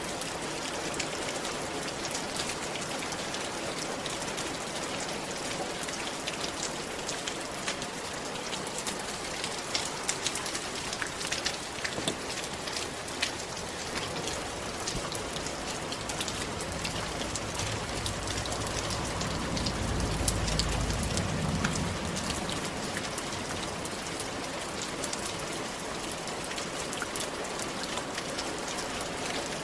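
Steady rain falling on a roof, with many separate drops ticking through the hiss. A little past halfway a low rumble swells for a few seconds and fades.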